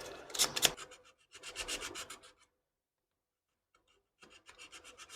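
Hand sanding of a 3D-printed figure part: quick, short rasping strokes of abrasive over the print, in two runs with a pause of about two seconds between them.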